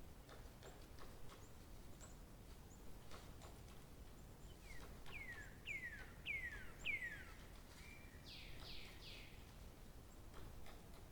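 Wild birds calling: about halfway through, a series of five falling whistled notes that grow louder, followed by a quick run of three higher falling notes, over a faint steady outdoor hiss.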